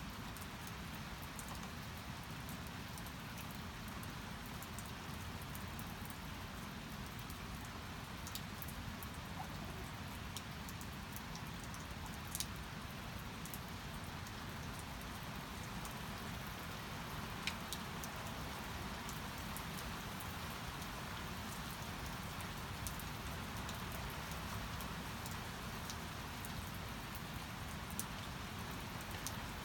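Steady rain falling, with scattered sharper drops tapping now and then.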